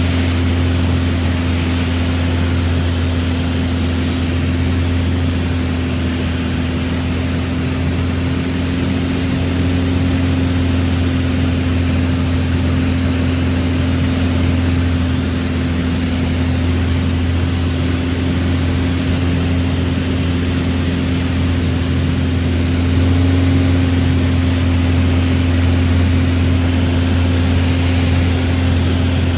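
Single-engine Mooney airplane's piston engine and propeller droning steadily in flight, swelling slightly in level about two-thirds of the way in.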